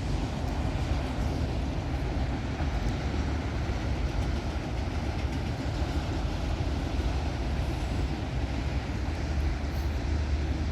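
Freight train rolling past at trackside: a steady low rumble of wheels on rail, without a clear beat.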